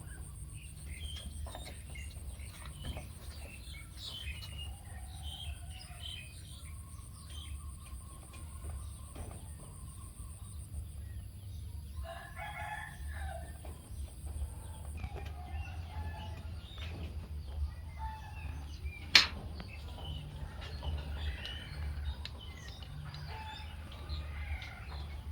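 Birds calling and chirping, with a longer call about twelve seconds in and a single sharp click about nineteen seconds in, over a steady low hum.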